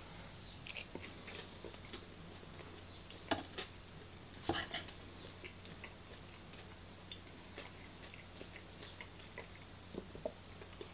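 Faint chewing of a mouthful of beef Wellington meat, with small wet mouth clicks and two louder smacks about a third of the way and halfway through. A low steady hum runs underneath.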